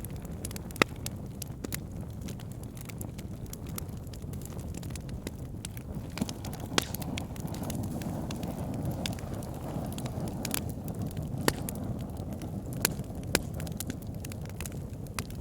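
Wood fire burning in a fireplace: a steady low roar of flames with irregular sharp crackles and pops, a few louder pops standing out.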